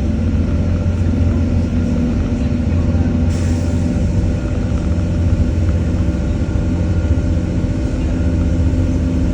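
Diesel multiple-unit train running, heard from inside the carriage: a steady low engine drone and running rumble with a few constant humming tones. A brief hiss about three seconds in.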